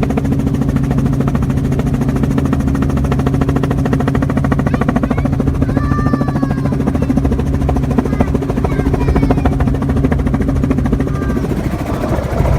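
Helicopter rotor and engine running in flight, heard from inside the cabin: a loud steady drone with a rapid pulsing chop from the blades. The drone changes about a second before the end.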